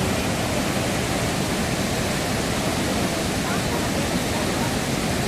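Muradiye Waterfall's water falling, a steady, loud, unbroken rush of white noise.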